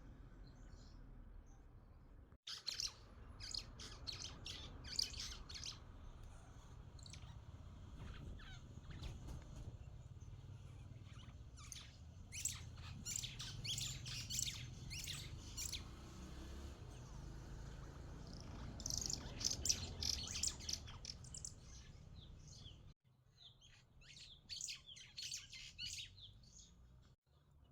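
Small birds chirping in repeated bursts of short, high notes over a low steady rumble, with sudden cuts in the sound a couple of times.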